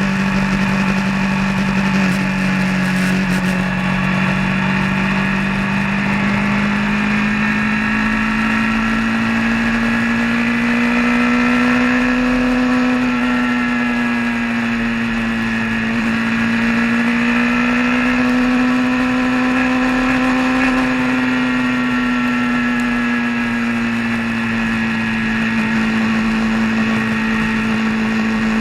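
A vehicle's engine running steadily while driving on the road. Its pitch rises a little about twelve seconds in, dips, rises again around twenty seconds, then eases back, as with small changes in road speed.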